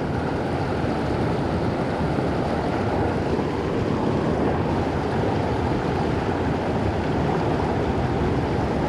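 Steady rush of creek water flowing over rocks, an even noise without breaks.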